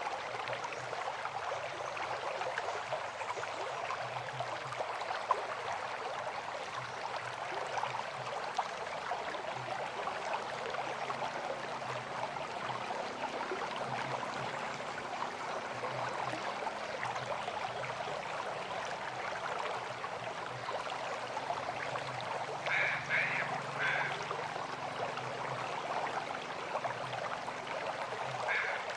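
River water flowing steadily. Short, repeated calls come in two brief clusters, about three-quarters of the way through and again right at the end.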